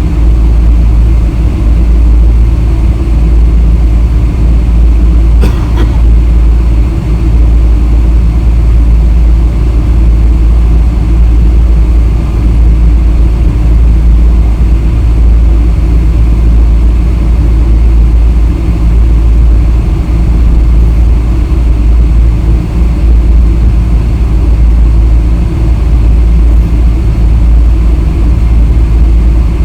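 Boeing 777-300 airliner's engines and airframe making a loud, steady low rumble, with no change in pitch or level; one faint click about five seconds in.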